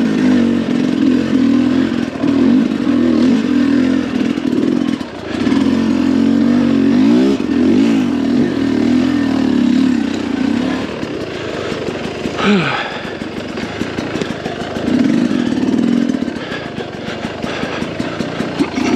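2022 Sherco 300 SE Factory's two-stroke engine revving up and down in short throttle bursts at low speed. It eases to a lower, steadier note around the middle, with a brief clatter, then swells again before settling low near the end.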